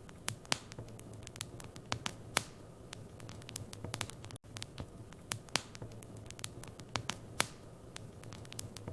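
Wood fire crackling in a fireplace: irregular sharp pops and snaps over a low steady hiss and hum, with a brief dropout about halfway.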